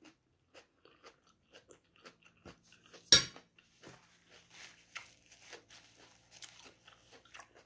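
Close-miked chewing of coconut rice, a run of small wet mouth clicks, with one sharp clink about three seconds in as a metal fork is set down on the ceramic plate.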